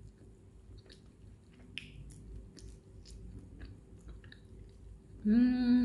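Soft, wet chewing and lip smacks of a person eating chicken with her fingers, a string of small clicks. Near the end a loud, steady 'mmm' hum of enjoyment, about a second long.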